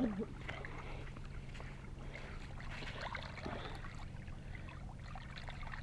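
Faint water at the river's edge, small laps and trickles, over a steady low hum.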